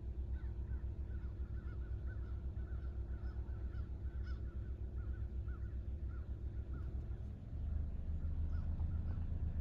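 A bird calling in a long run of short repeated notes, about three or four a second, over a steady low rumble that grows louder near the end.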